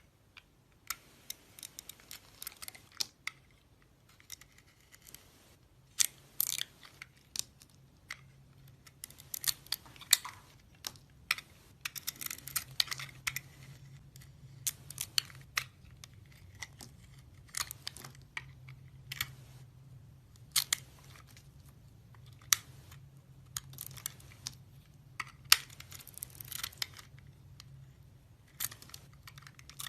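Knife carving and cutting into a bar of soap: irregular crisp crunching and scraping cuts, some in quick runs, over a faint low steady hum.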